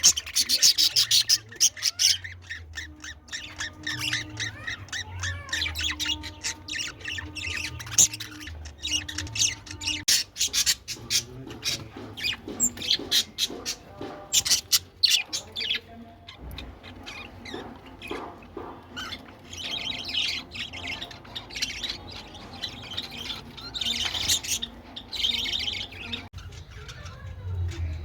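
Birds squawking and chirping, with a fast run of harsh repeated calls in the first couple of seconds and scattered calls after.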